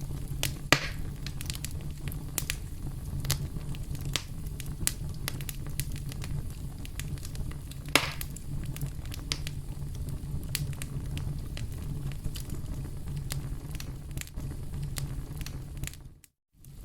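Wood campfire burning: a steady low rumble of flames with frequent small crackles, and two louder pops, about a second in and about eight seconds in. The sound cuts out for about half a second near the end.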